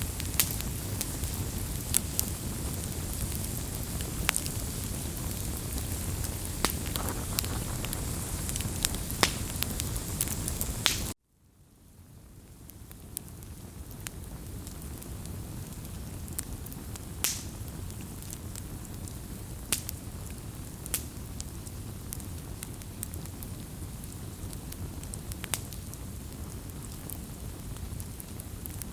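Wood fire crackling steadily with frequent sharp pops and snaps. About 11 seconds in the sound cuts out abruptly, then fades back in over a few seconds and the crackling resumes a little quieter.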